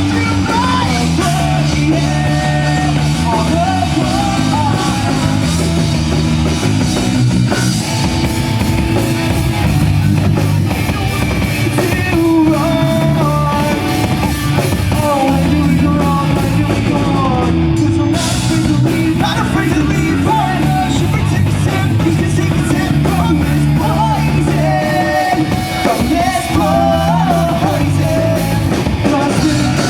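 Live rock band playing, with drum kit, guitar and a singing voice.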